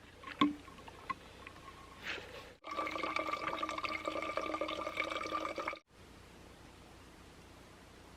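Water pouring steadily into a container for about three seconds, with a light ringing clink shortly before.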